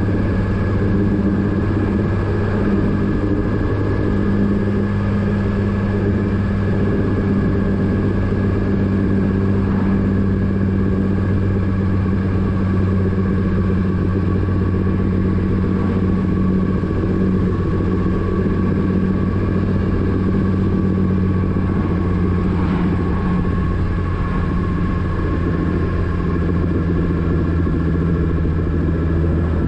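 Motorcycle engine running steadily at nearly constant revs, a low even drone with no real rise or fall in pitch.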